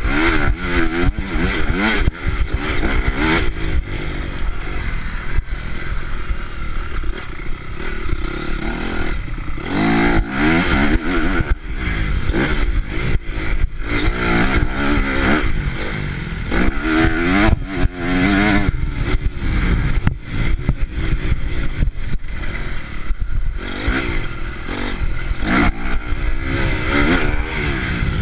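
Four-stroke Honda CRF motocross bike engines revving hard, the pitch climbing and dropping again and again as the throttle is worked through the gears. Sharp clicks and a low rumble run through the engine sound.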